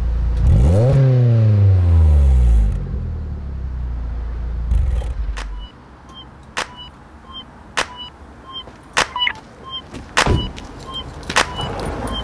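VW Lupo GTI four-cylinder engine through a Janspeed stainless steel cat-back exhaust: idling, then one quick rev that climbs in about half a second and falls back over the next two seconds. The engine sound stops about halfway in, and sharp regular clicks about once a second follow.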